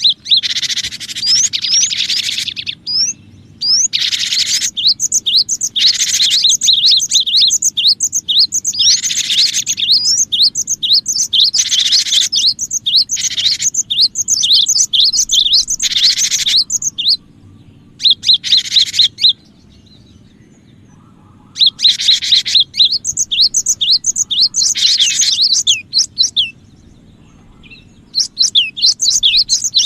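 Cinereous tit (gelatik batu) calling energetically: rapid runs of sharp chirps mixed with harsh buzzy bouts, broken by a few short pauses.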